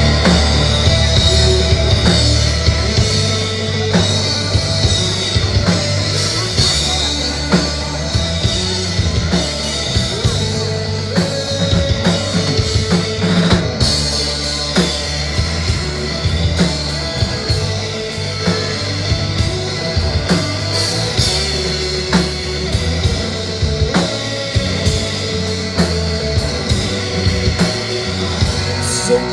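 Live rock band playing an instrumental passage, with drum kit, bass and guitar and no vocals.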